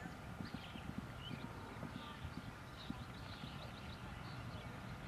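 Hoofbeats of an eventing horse galloping on turf, faint, heard as irregular low thuds.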